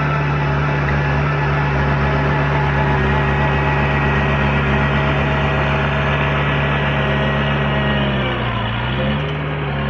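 Heavy diesel engine of earthmoving equipment running steadily at constant revs. Near the end its pitch sags briefly and then comes back up, as when the engine takes on load.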